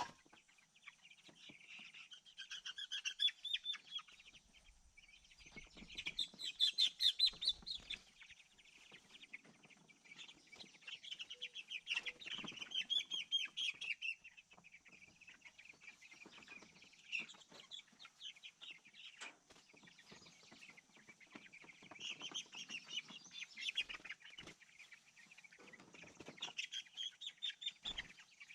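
A flock of meat chickens chirping and clucking in bursts, with a few knocks and rattles mixed in.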